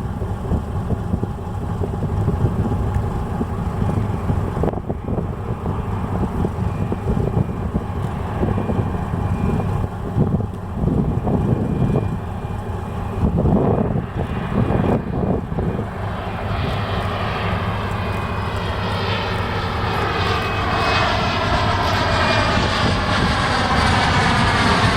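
Steady low rumble, with a few knocks around the middle. From about two-thirds of the way in, a jet airliner coming in to land grows louder overhead: a whine whose pitch sweeps downward, still rising in level at the end.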